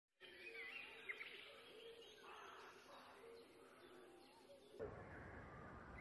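Faint birds chirping and calling, many short whistled notes that glide up and down. Just under five seconds in, the background changes abruptly to a steadier low rumble with fewer calls.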